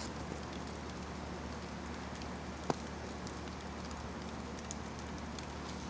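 Steady outdoor background of low hum and hiss, with a few faint scattered ticks and one sharper tick about two and a half seconds in.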